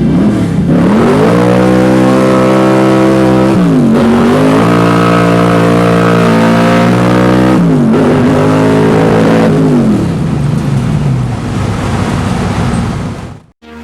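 Small-block Chevy V8 in a Camaro accelerating hard through the gears: the engine note climbs, drops briefly at each of two shifts about 4 and 8 seconds in, climbs again, then slides down and fades away.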